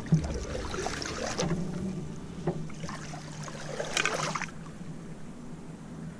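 Canoe paddle strokes in the water, two splashing pulls about three seconds apart.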